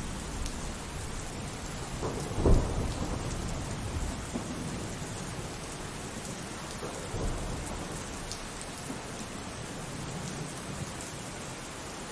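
Steady rain with thunder: a loud thunderclap about two and a half seconds in, followed by weaker rumbles.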